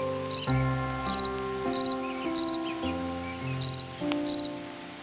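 An insect chirping in short, high, pulsed trills, about three chirps every two seconds, over soft background music with held notes.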